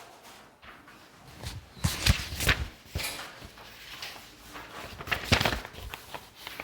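Paper pages of a textbook being flipped: short rustles and light knocks in two clusters, about two seconds in and again a little past five seconds.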